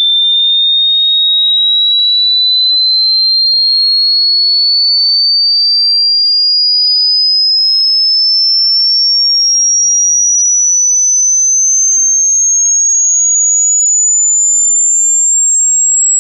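A single pure, high-pitched electronic tone sweeping slowly and steadily upward in pitch at a constant loud level.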